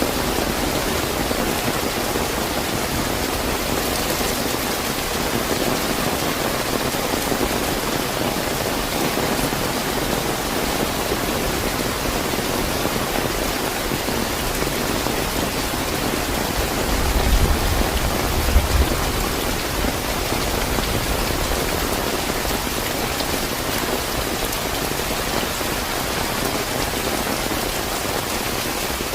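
Steady, fairly heavy rain falling with an even hiss, with a brief low rumble a little past halfway through.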